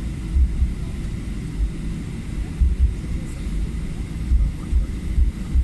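Airplane rumbling low and steady, with irregular deep thumps and a faint thin whine.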